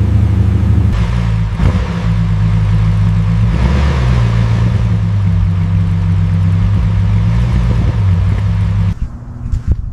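An old car's engine running, with a steady low pitch that picks up briefly a few seconds in and then cuts off suddenly near the end, followed by a few clicks.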